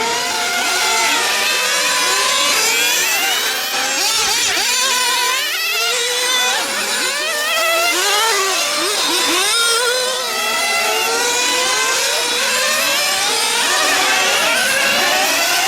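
Several nitro (glow-fuel) engines in 1/8-scale RC GT cars running on track, their high-pitched whine rising and falling over and over as the cars accelerate and brake through the corners.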